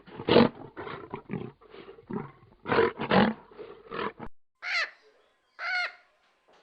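Big cat roaring in a run of short, rough grunting roars that stop abruptly after about four seconds. Then a different animal gives two short, higher-pitched, clear calls.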